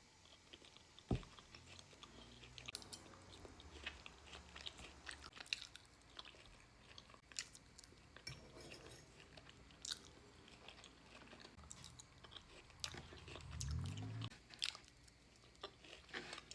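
Close-miked chewing of a bite of steak and roasted vegetables: soft, faint mouth clicks and smacks scattered throughout, with a brief low hum near the end.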